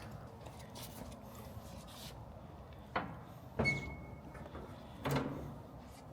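A few separate sharp knocks and clanks, one about three seconds in, another half a second later with a short ringing note after it, and a third about five seconds in.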